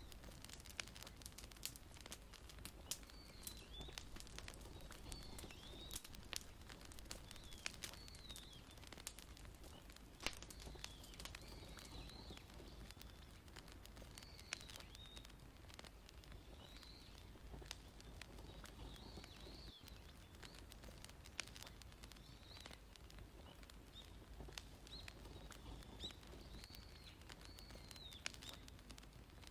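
Wood fire crackling: faint, irregular sharp pops and snaps over a low steady rumble, with short high chirping glides every second or two.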